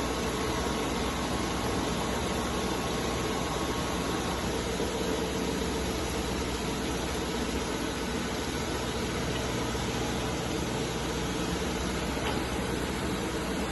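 Machine-shop noise: a CNC milling machine running steadily, an even hiss with a constant hum.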